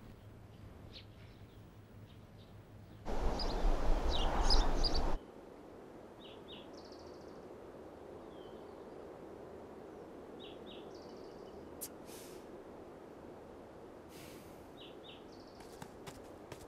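A loud rushing noise for about two seconds, then a faint steady outdoor ambience with short bird chirps, often in pairs, every few seconds.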